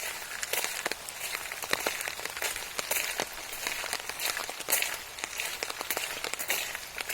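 Rain falling steadily, with many irregular close drop ticks on a surface near the microphone.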